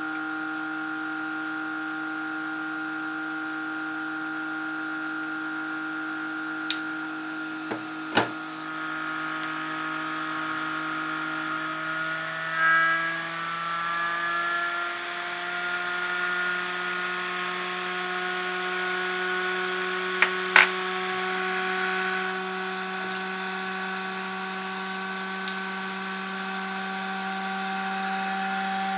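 High-speed rotor of a magnetically levitated generator spinning with a steady multi-tone whine. The pitch creeps gradually upward from about halfway through as it speeds up. A few sharp clicks come about a quarter of the way in and again about two-thirds in.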